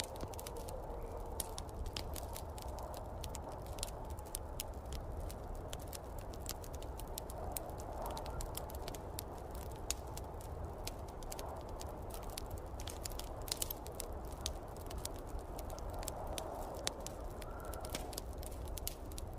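Wood fire crackling in a fireplace, with many sharp irregular pops throughout, over the steady rush of a snowstorm wind that swells and eases.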